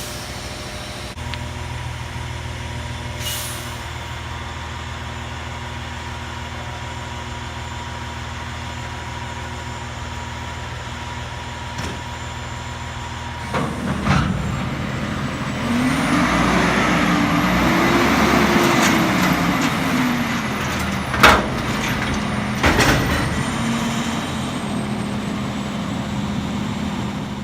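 Garbage truck's diesel engine idling steadily, with a short air hiss early on. About halfway in the engine revs up and down for a few seconds as the hydraulics work, with a faint high whine. Near the end come two sharp metal bangs, the first of them loud.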